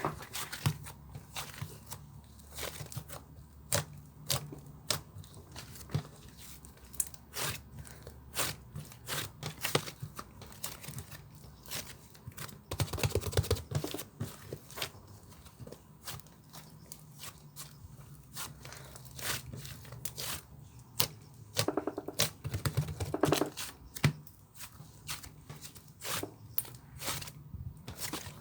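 Slime being squeezed, poked and stretched by hand, giving a run of sharp, irregular clicks and pops, with two spells of fast squelching pops, about a third of the way in and again past the middle.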